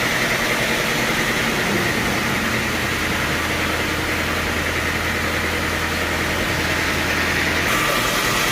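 Sawmill machinery running steadily: a constant mechanical hum with a high whine over it, changing abruptly near the end.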